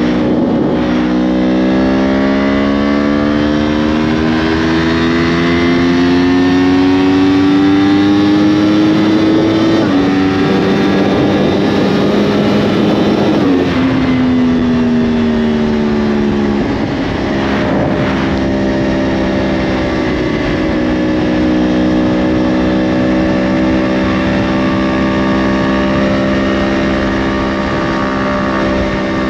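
2010 Yamaha R1's crossplane inline-four through a Yoshimura exhaust, under way: the engine note climbs steadily for about ten seconds, steps at a gear change, then falls as the throttle is eased about fourteen seconds in. After a short blip it holds a steady cruising note. Rushing wind noise lies under the engine.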